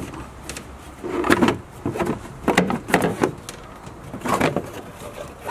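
Plastic engine-bay trim cover being worked loose and pulled off by hand: about five separate scrapes and knocks with a few sharp clicks.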